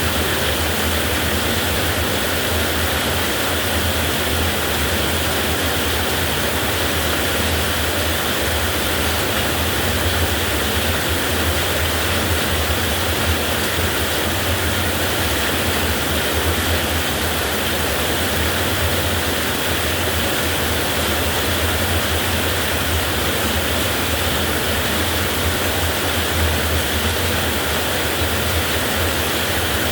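Heavy rain falling in a steady, unbroken downpour, with no thunder.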